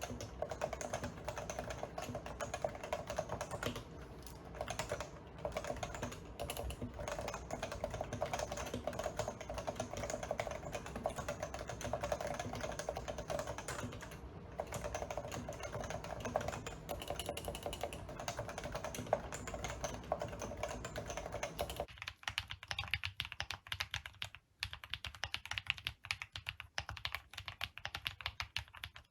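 Continuous fast typing on an enthusiast keyboard, key after key in a dense stream. About three-quarters of the way through, the sound changes to a thinner, brighter clack with less low body, as from a different keyboard or switch.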